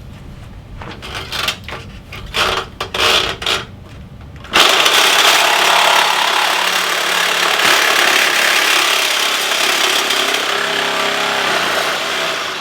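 Power cutting tool cutting through a motorcycle's steel frame tube. After a few short, irregular bursts it starts suddenly about four and a half seconds in and runs loud and steady almost to the end.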